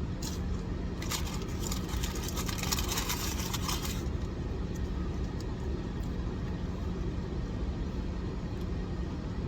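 A car's engine idling with a steady low hum, and a noisy rustle for a few seconds starting about a second in, as from handling food packaging.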